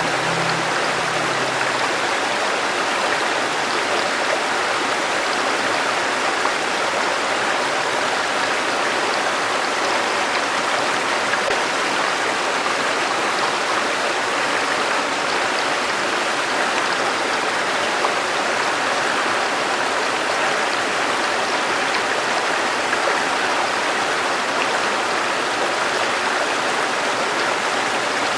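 Steady rushing of a flowing river stream. A low, soft music tone dies away in the first second or two.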